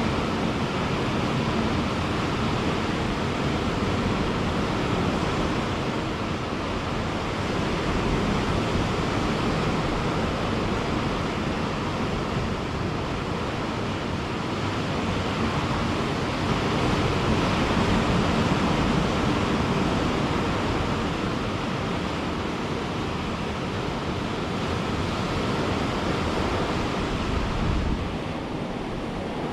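Ocean surf breaking and washing on a beach, a continuous rushing roar that swells and eases every several seconds, with some wind on the microphone.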